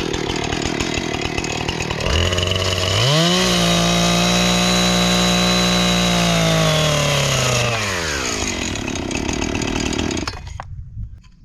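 Gas chainsaw idling, then revved up to full throttle for about five seconds and let back down to idle, and shut off near the end.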